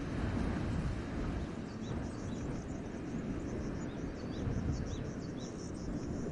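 Wind blowing through a forest as a steady low rush, with small birds calling over it: short high chirps repeated every half second or so, joined from about two seconds in by higher twittering.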